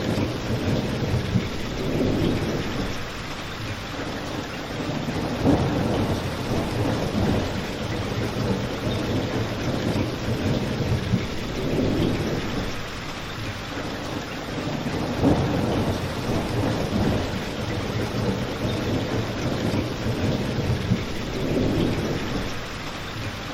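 Steady rain mixed with a crackling fireplace, with a low rumble that swells and fades every few seconds.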